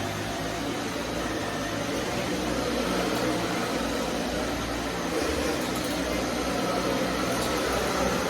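Vacuum cleaner running steadily, its motor and suction giving a constant loud rushing noise with a low hum that swells slightly now and then.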